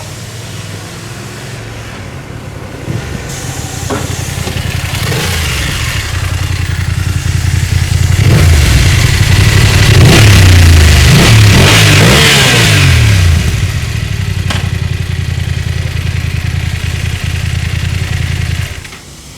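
BMW F 850 GS parallel-twin engine running through an Akrapovic exhaust: a steady low idle that builds, then a run of revs rising and falling in pitch through the middle. It settles back to a steady note and breaks off abruptly near the end.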